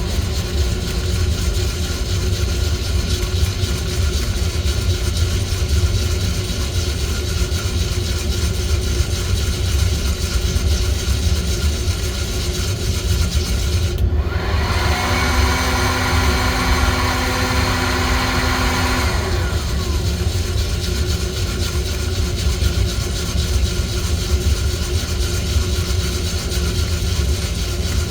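Steady mechanical drone of coffee roasting equipment running. About 14 seconds in, a second electric motor starts with a rising whine, holds a steady pitch, then winds down about five seconds later, like a short burst of heating between stirring cycles.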